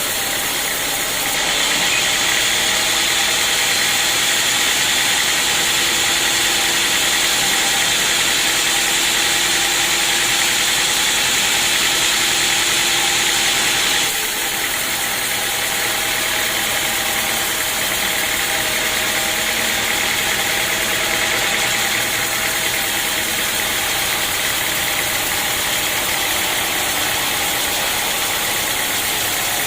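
Sawmill running steadily, with a louder, hissier stretch of about twelve seconds that fits the saw blade cutting through an acacia log. It then drops back to a slightly quieter steady run.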